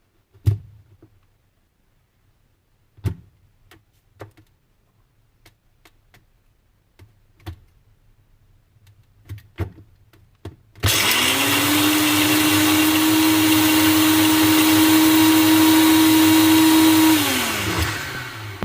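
A few scattered clicks and knocks, then a Nutri Ninja blender starts suddenly about eleven seconds in, runs steadily and loudly for about six seconds, and winds down to a stop, blending a thick jerk sauce of onions, ginger, allspice and thyme.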